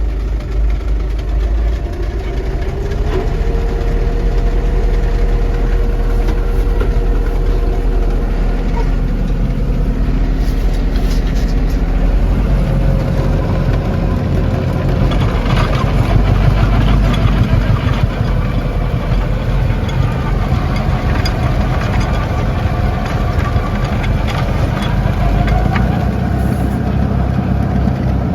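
Lovol 504 tractor's diesel engine running steadily, with a held whine above the rumble that shifts in pitch every few seconds.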